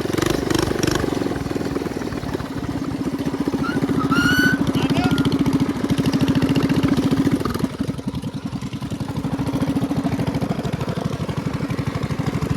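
Minibike's small single-cylinder engine running under throttle while riding. It eases off about eight seconds in, then picks up again. A brief high chirp sounds about four seconds in.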